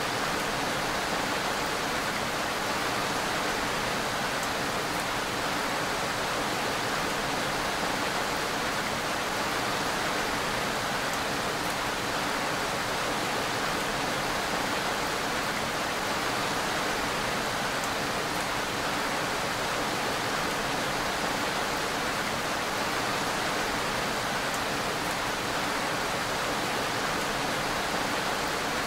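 Rain falling steadily: an even hiss that does not change in strength.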